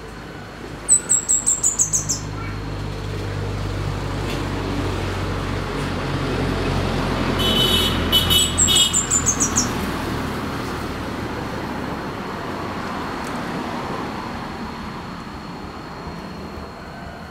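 Scarlet-headed flowerpecker singing two short bursts of rapid, very high notes, each run falling slightly, about a second in and again near the middle. Under them, a passing vehicle's rumble swells and fades away.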